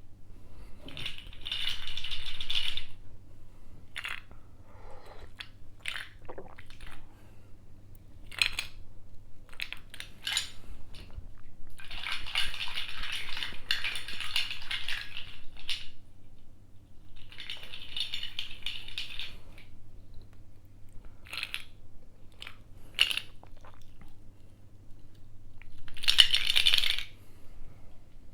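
Ice cubes rattling and clinking against each other in a cup, in four shaken bouts of one to three seconds, with single clicks of ice between them.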